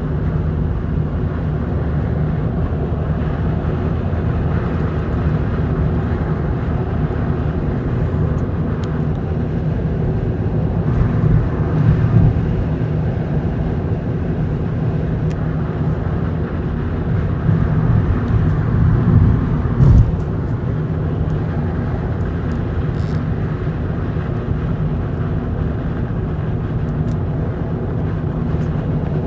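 Steady wind and road noise inside a Volkswagen GTI's cabin while driving, swelling briefly twice, about a third of the way in and again about two thirds in. It is an unwanted wind noise the owner is trying to reproduce for the shop.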